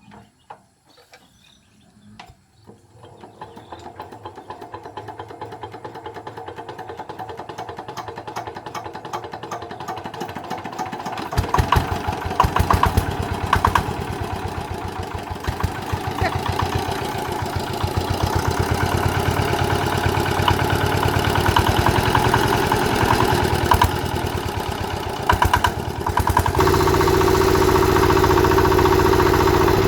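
Small D8 single-cylinder diesel engine being turned over, its strokes quickening and getting louder. It catches about 11 seconds in and runs with a steady low chugging. Near the end it steps up to a higher, louder speed.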